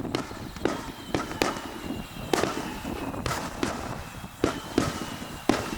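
Aerial fireworks shells bursting in a quick, irregular string of sharp bangs, about a dozen in under six seconds, each with a short echo.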